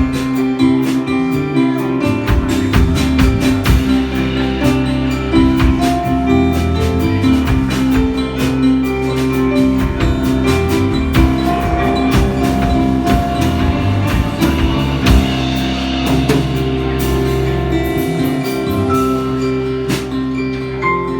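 Live rock band playing an instrumental passage without vocals: guitars holding chords over bass and a drum kit struck steadily.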